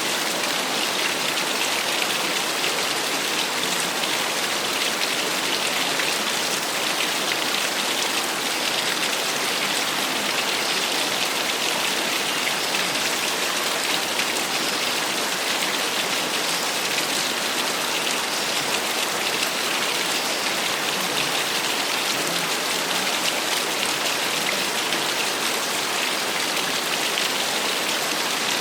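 Small waterfall splashing steadily, an even hiss of falling water without breaks.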